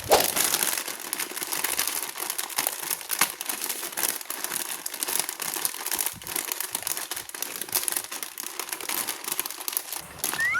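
Plastic packaging being handled and crinkled, a continuous dense crackle with a little tearing, with a brief squeak near the end.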